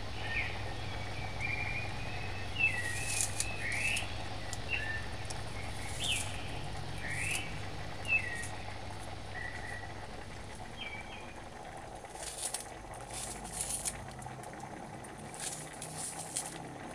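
A bird chirping repeatedly, short quick calls, through the first eleven seconds or so, over a steady low hum. A knife slicing onion and scallion by hand gives soft clicks, more of them in the second half.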